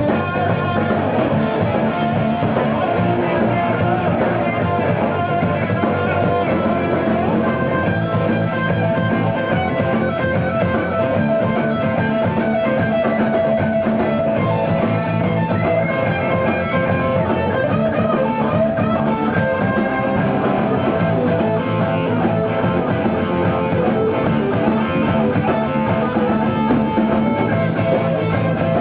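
Live rock band playing, with guitars and a drum kit.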